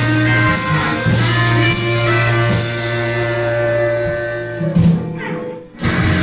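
Live blues band with guitar and drums holding sustained notes, with cymbal crashes in the first couple of seconds. The sound drops away about five seconds in and cuts off briefly, then music starts again abruptly near the end.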